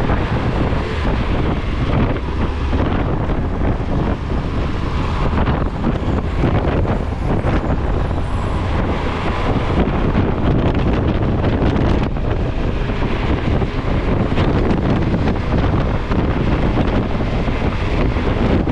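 Steady, loud rumbling noise with wind buffeting the microphone, as of being on the move in the open.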